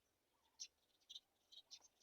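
Faint, short high-pitched bird chirps, about five in quick succession, starting about half a second in.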